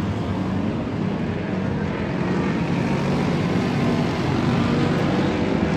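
Stock-car V8 engines running hard at racing speed, a steady loud drone.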